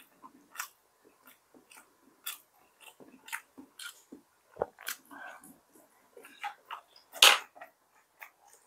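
Close-miked chewing and biting of food: irregular wet mouth clicks and smacks, with one louder burst about seven seconds in.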